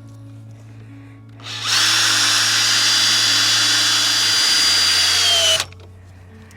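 Power drill running for about four seconds, driving a screw into wood; its whine drops a little in pitch just before it stops suddenly.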